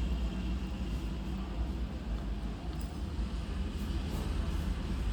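Steady low background rumble with a faint hiss and no distinct event.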